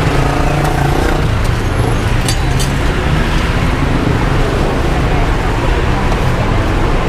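Steady low-pitched rumble of a busy street-stall background, with faint voices in the first second or so and a couple of light clicks about two and a half seconds in.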